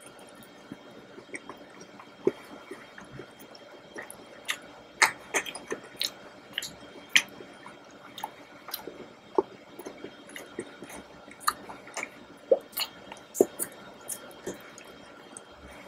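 Close-miked mouth sounds of a person eating chocolate: chewing, with many short sharp clicks and smacks at irregular intervals.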